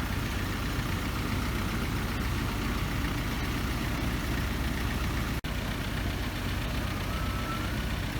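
Engine of a narrow-gauge sugar-railway train idling steadily with a low drone. The sound cuts out for an instant about five and a half seconds in.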